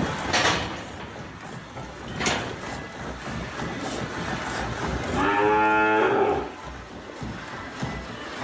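A cow mooing once, a single pitched call of about a second a little past the middle. Two brief noisy bursts come near the start, over a steady background hiss.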